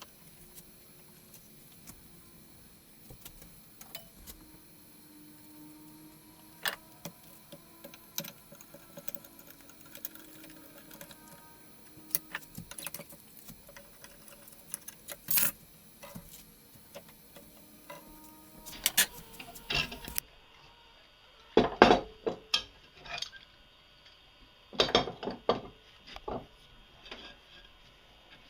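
Scattered clicks and knocks of wood and hand tools being handled at a workbench, growing more frequent and louder in the last third.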